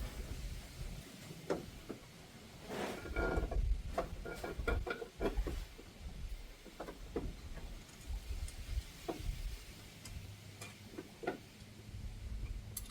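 Irregular metallic clinks and knocks of tools and parts being handled while a new strut top is fitted, with a cluster of ringing knocks a few seconds in.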